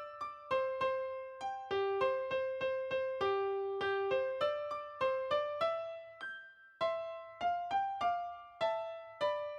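Background music: a light keyboard melody of plucked-sounding piano notes, several notes a second.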